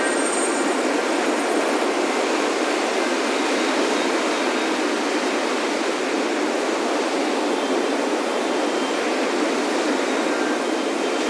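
Ocean surf on a beach: a steady, unbroken wash of breaking waves. Wind chime tones ring out faintly in the first second.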